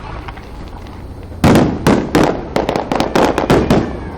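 Fireworks going off: after a lull of about a second and a half, a rapid string of about a dozen sharp bangs, each ringing briefly, that stops shortly before the end.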